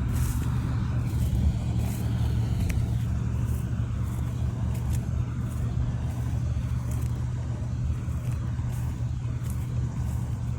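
Engine of a rice-harvesting machine running steadily at an even speed, a continuous low hum.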